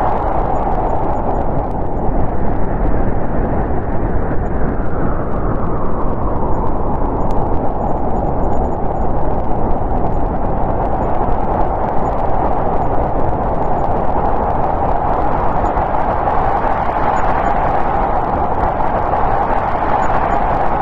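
Snowstorm wind blowing steadily with a deep rumble underneath and a whistling band that rises a little in pitch about five seconds in and again near the end.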